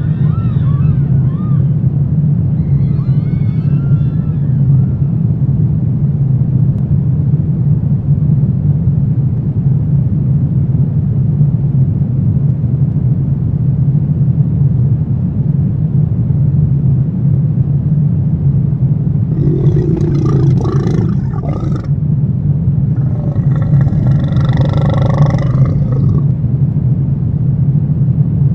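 Horror ambience sound design: a loud, steady low rumbling drone. Faint wavering cries sound about three seconds in, and two longer, stronger drawn-out cries come around twenty and twenty-four seconds in.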